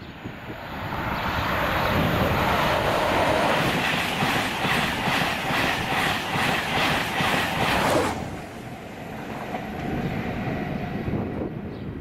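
InterCity 225 express of Mark 4 coaches passing through the station at speed. A rush builds over the first two seconds into a regular clickety-clack of wheels over the rail joints. The sound cuts off suddenly about eight seconds in as the last coach goes by, leaving a fainter rumble.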